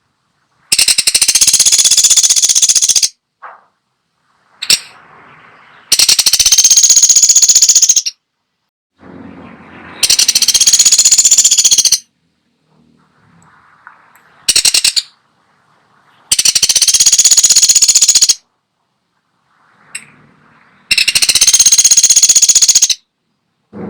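A woodpecker gives five loud rapid rattling bursts, each about two seconds long, roughly every five seconds, with a few short clicks between them.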